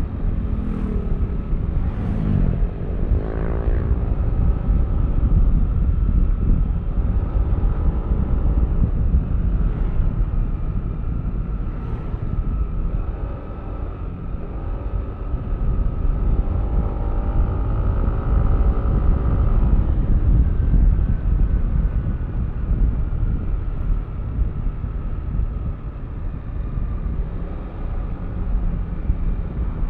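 Yamaha Aerox V3 scooter's single-cylinder engine running under way with a steady low rumble of wind and road. Its pitch climbs as it accelerates about three seconds in, and again in the middle before easing off.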